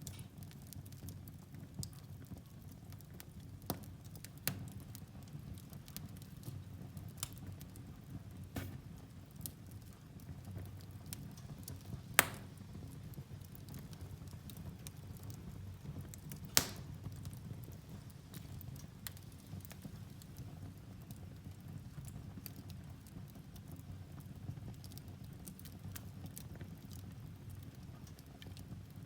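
Firewood logs burning in a fireplace: a steady low rumble of flames with scattered crackles, and two loud sharp pops about twelve and sixteen seconds in.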